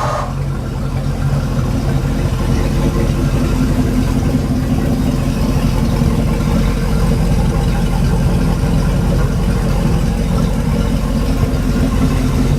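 Mercruiser 5.0 small-block V8 marine engine idling steadily just after starting.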